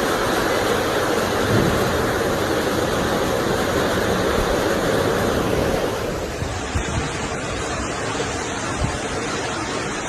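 Floodwater rushing, a steady loud noise with no clear pitch. About six seconds in it drops a little and loses its highest part.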